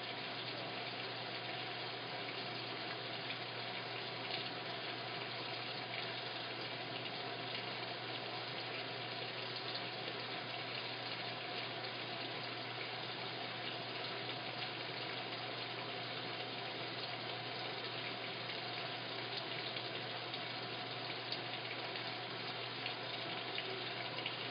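Washing machine filling with water: a steady, unbroken rush of water running in.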